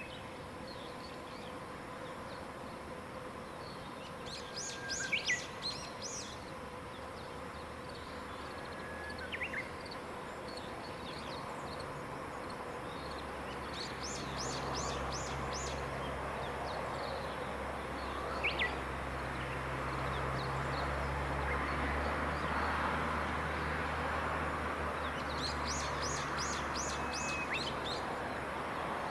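Wild songbirds singing in the open: three short, high phrases of rapid repeated notes about ten seconds apart, with a few single descending calls between them. A low rumble comes in and grows louder from about halfway.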